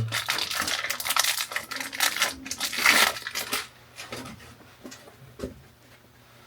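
Galvanized steel pipe fittings being handled and screwed together: a dense run of metallic clicking and scraping for about three and a half seconds, then a few light knocks.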